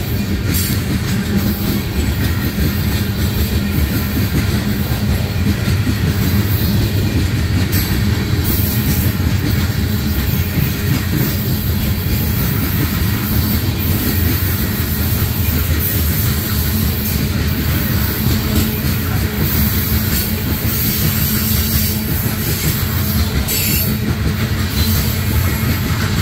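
Coal train's gondola cars rolling past close by: a steady, loud noise of steel wheels running on the rails.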